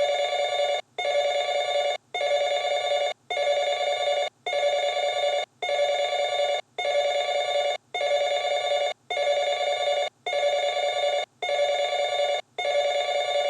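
An electronic ringing tone, like a phone ringing, with a steady buzzy pitch. It sounds for about a second at a time with short gaps between, repeating about once a second.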